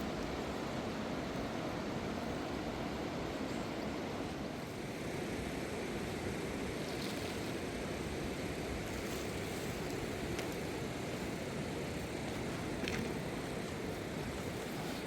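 Fast river water rushing steadily, with a few faint clicks.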